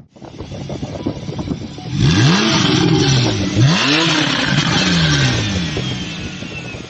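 A car engine revved hard twice, about a second and a half apart, each time the pitch rising sharply and then falling away, over street traffic noise.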